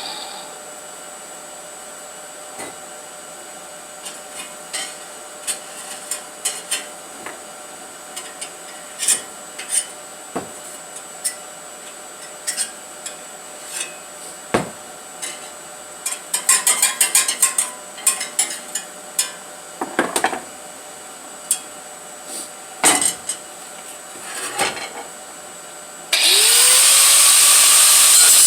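Scattered clicks, taps and knocks of hand tools and metal parts being handled, with a quick rattle of clicks partway through. Near the end a power tool starts and spins up with a rising whine, then runs loudly, cutting or grinding on the steel exhaust pipe.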